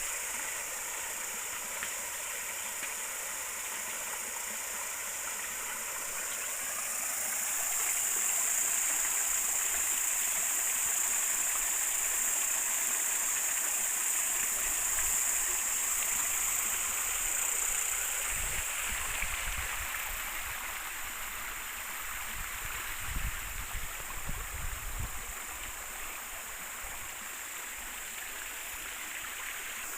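River water flowing, a steady rushing sound that swells for a while in the middle, with a cluster of low thumps between about 18 and 26 seconds in.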